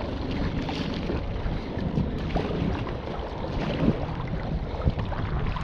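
Wind rumbling on the microphone over choppy sea, with water splashing and slapping around a kayak.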